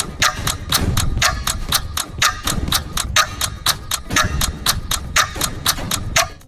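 Clock-ticking countdown sound effect, an even tick-tock at about three ticks a second over a low rumble, timing the seconds left to answer a quiz question.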